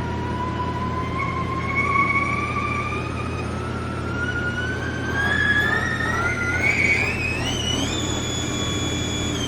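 Haas desktop lathe spindle running under program, its whine rising steadily in pitch as it speeds up, holding at a high steady pitch about eight seconds in, then starting to fall right at the end as the spindle winds down.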